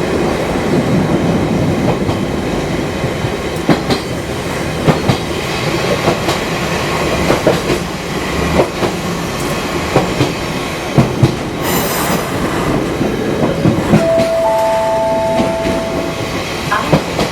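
Fukui Railway 200-series electric train running along the line, its wheels clicking over rail joints above a steady running noise. About twelve seconds in there is a short burst of hiss, and near the end a steady two-note tone sounds for about two seconds.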